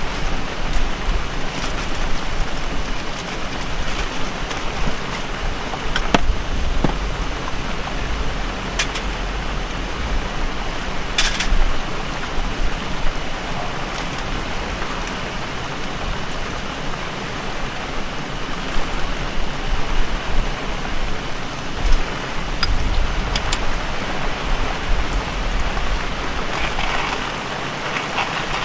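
Heavy typhoon rain falling steadily, with a few sharp drop hits now and then.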